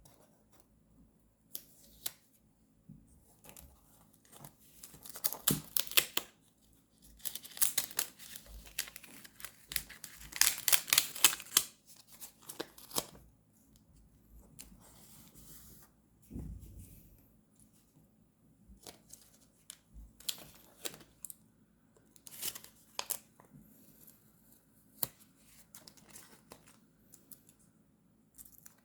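Paper and sticker sheets being handled while a journal page is decorated: three longer bursts of crackly rustling or tearing, about five, eight and eleven seconds in, with scattered short taps and snips.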